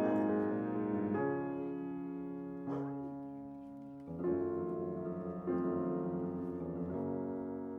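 Slow piano music: chords struck about every second and a half, each left to ring and fade.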